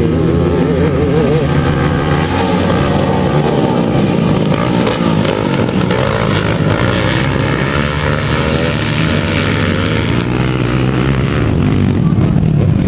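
Several motocross motorcycle engines running at once, their pitch rising and falling as they rev.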